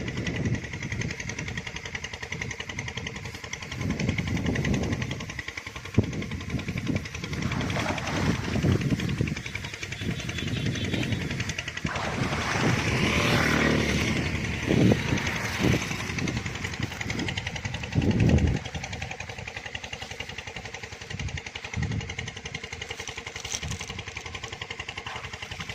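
An engine running steadily, with a vehicle passing by about halfway through, and a few short thuds.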